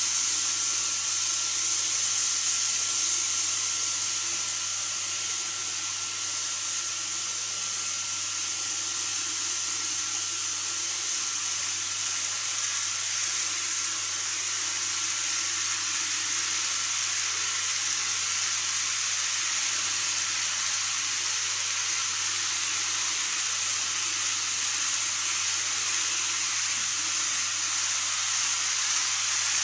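N-gauge model train running on the layout track: a steady whirring hiss of wheels and motor with a faint high motor whine.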